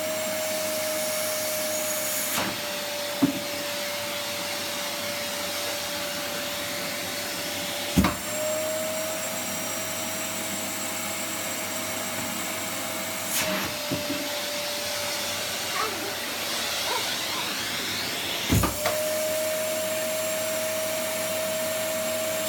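Electric vacuum cleaner running steadily with a constant whine while it is used to suck up plastic play balls. Its pitch shifts slightly several times, and a few sharp knocks stand out, the loudest about eight seconds in and near the end.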